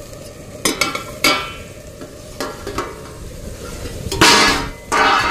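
Onion and spice paste (masala) sizzling in oil in a metal kadai. A steel plate lid clinks against the pan a few times about a second in, and there is a louder burst of noise about four seconds in as the lid is lifted off.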